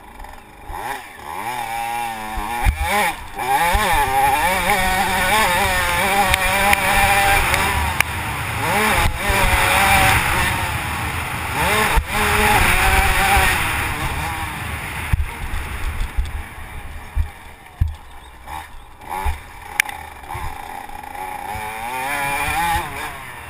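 Motocross motorcycle engine revving up and dropping back again and again as the bike accelerates and shifts, heard from a GoPro on the bike or rider, with wind noise and scattered knocks. The engine is quieter and on and off the throttle through the second half.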